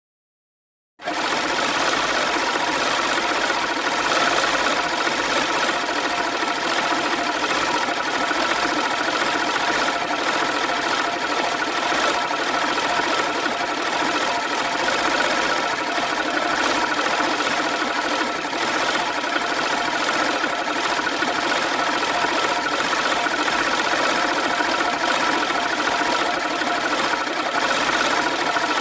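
A machine running steadily, a dense mechanical whir with several held tones, starting abruptly about a second in after silence.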